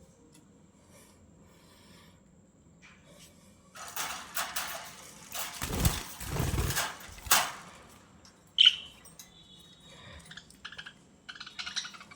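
Budgerigars calling: a few seconds of rustling with low thumps, then one loud sharp chirp, short whistled notes and quick chattering near the end.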